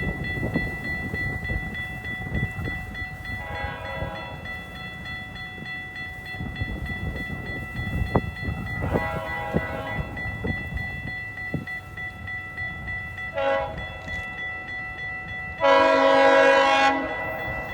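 GO Transit commuter train's air horn sounding the level-crossing signal as it approaches: a blast, a second slightly longer one, a short toot, then a longer and louder blast near the end, over the rumble of the oncoming train.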